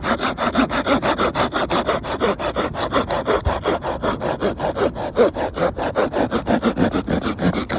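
Hand saw cutting through firewood in quick, even back-and-forth strokes, about six a second, stopping at the end.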